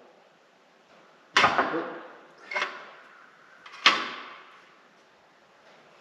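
Three sharp knocks on steel about a second apart, each ringing out briefly, as the Bobcat's steel bushing and mount parts are knocked around to bring them square.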